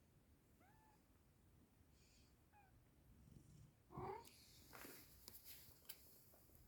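Kitten mewing: two faint, short, high mews, then a louder mew about four seconds in, followed by rustling and a few sharp clicks.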